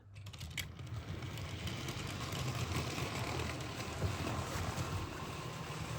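Model train running on its layout track: a steady mechanical running noise with a low motor hum, building up over the first second as the train gets moving.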